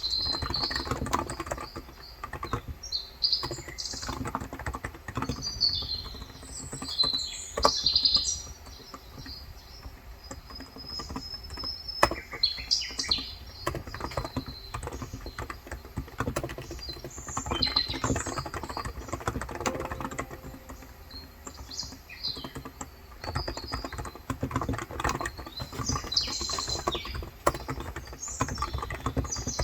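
Typing on a Cox Endeavor electro-capacitive tenkeyless keyboard with 35 g switches, the keys clicking in runs with short pauses. Small birds chirp and twitter throughout.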